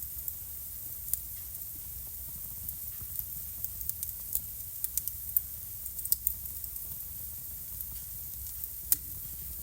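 Wood fire burning in a fireplace, crackling with irregular sharp pops over a steady hiss. The pops come thickest around the middle, and the loudest single pop falls near the end.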